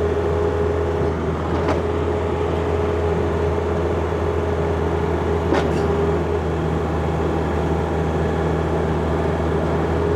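John Deere 50ZTS mini excavator's diesel engine running at a steady speed, with a constant low hum and a steady tone over it, while the machine digs stumps. Two faint knocks sound, at about two seconds and about six seconds in.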